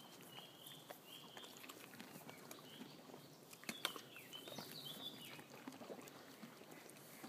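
Quiet outdoor ambience with small birds chirping in short, repeated notes, busiest near the start and again around the middle, and a few soft clicks.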